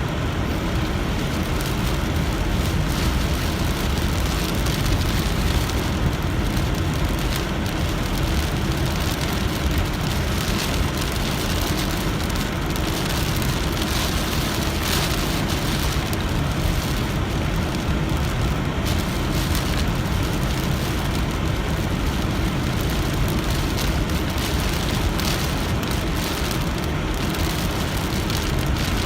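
Heavy rain pattering on a moving car, with the car's steady low road and engine noise inside the cabin.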